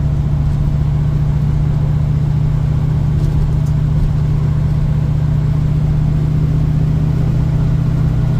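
1972 Ford Mustang Mach 1's V8, fitted with a Crane 2040 cam and a single 3-inch exhaust through a Black Widow Venom muffler, running at a steady cruise. The deep exhaust drone holds even, with no rise or fall in revs.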